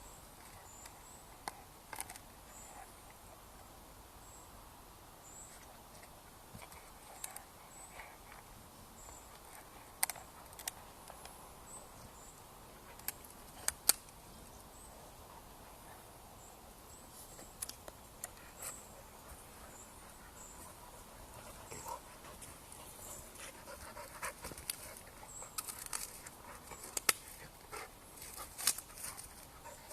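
A dog panting and moving about, with scattered sharp clicks that come thicker near the end.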